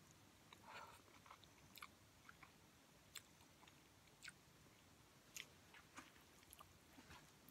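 Faint chewing of ramen noodles, with soft mouth clicks scattered through.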